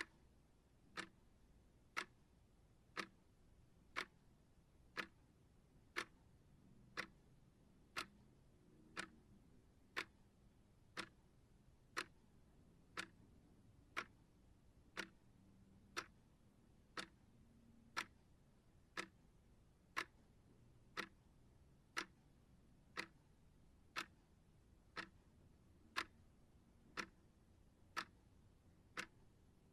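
Clock ticking evenly, one sharp tick per second, as a focus-timer track.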